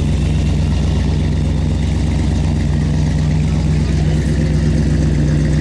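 Steady low engine hum that runs on without change, with a faint haze of background noise above it.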